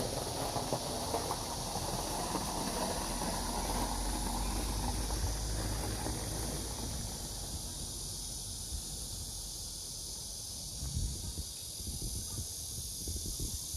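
Steady high-pitched chorus of insects at a campsite, with wind rumbling on the microphone that dies down about seven seconds in; a few soft low knocks near the end.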